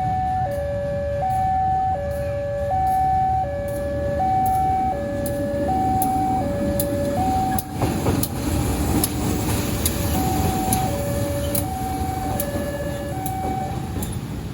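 Railway level-crossing warning alarm sounding a two-tone high-low signal, the tones swapping about every 0.7 seconds, with a steady low rumble underneath. There is a sharp knock about halfway, and the alarm stops shortly before the end.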